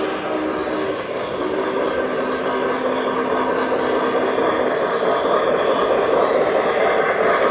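O gauge model train running on the track layout: a steady rolling rumble of wheels and motor, with a low hum that fades out a little past halfway.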